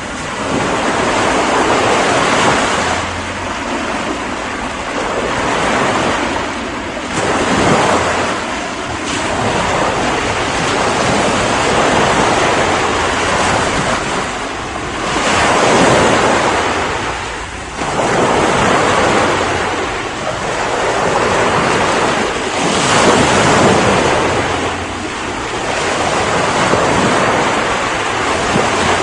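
Ocean waves breaking on the shore, a continuous surf wash swelling and receding every few seconds.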